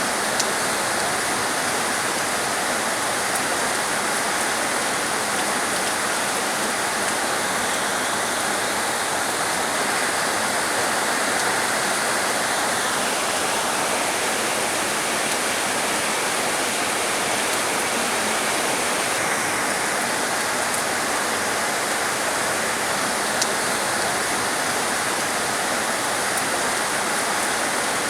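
Heavy rain falling steadily, a dense even hiss of water, with a couple of single drop ticks.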